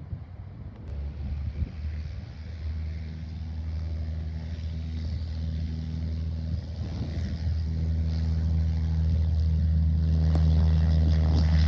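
Propeller aircraft engine droning, growing steadily louder as the plane approaches.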